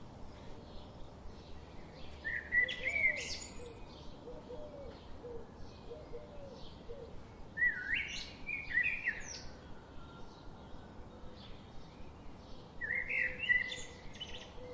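Birds singing and chirping, with many small high chirps throughout and one louder song phrase repeated three times, about five seconds apart.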